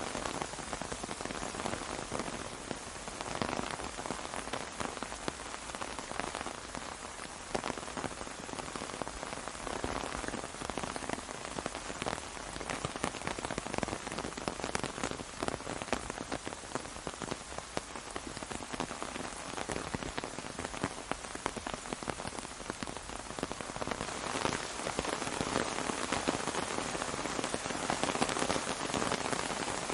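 Steady rain falling onto an umbrella, a dense patter of individual drops over a continuous hiss, swelling slightly in intensity now and then.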